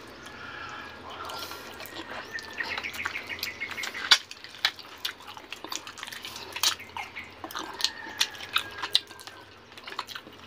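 Wet mouth sounds of eating braised whole chicken by hand: chewing and lip-smacking, with irregular sharp wet clicks throughout.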